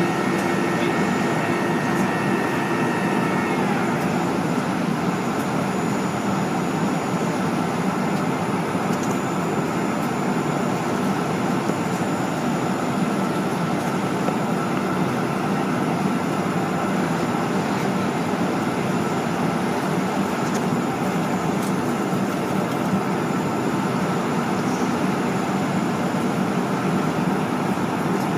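Jet airliner cabin noise: steady engine and airflow rumble heard from a passenger seat during departure. A faint high whine fades out about three seconds in.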